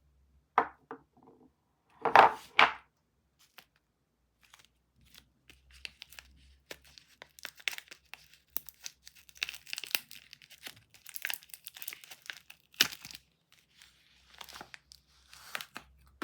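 Soap wrapping being unwrapped by hand: a few loud crinkles in the first three seconds, then a long run of small crackles and tearing, with one sharp crackle a few seconds before the end and softer rustling after it.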